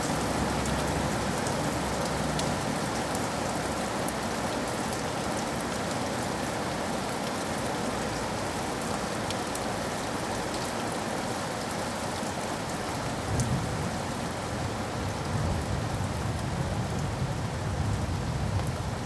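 Steady heavy rain falling on surfaces, with scattered sharp drop ticks. About two-thirds of the way through, a low rumble of thunder swells in under the rain and keeps going.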